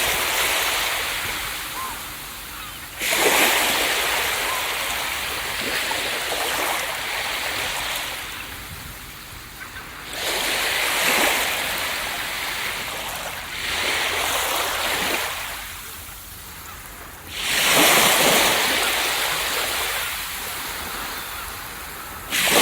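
Ocean waves breaking on a beach. A new wave crashes every three to seven seconds, each a sudden rush of surf that washes up and slowly fades.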